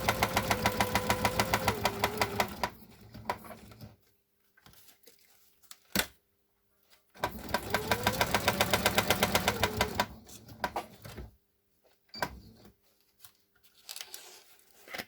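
Electric sewing machine stitching through paper in two runs: a fast, even needle clatter over a motor whine that rises, holds and falls, the first run lasting about two and a half seconds and the second from about seven to ten seconds in. A sharp click comes about six seconds in, and light handling noises come near the end.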